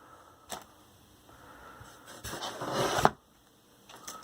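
Plastic packaging rustling and crinkling as kit parts are handled: a sharp click about half a second in, then crinkling that builds to its loudest near three seconds in and stops abruptly, with a few small clicks near the end.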